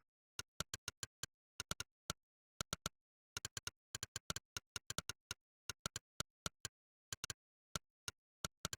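Monkeytype's 'click' typing sound effect: one identical sharp click per keystroke, coming in quick irregular runs of typing with short pauses between them.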